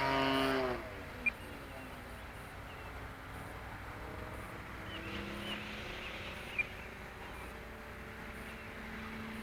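Radio-controlled model airplane flying past close by: its propeller drone drops in pitch and fades within the first second. After that only a faint, distant drone of the planes aloft wavers in pitch. Two short sharp high clicks sound, about a second in and again near the middle.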